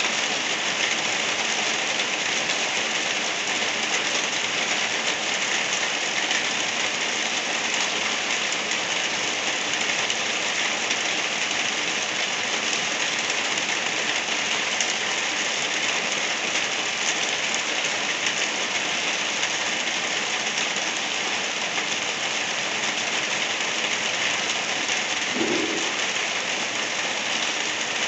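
Steady rain falling on surfaces, an even hiss without let-up.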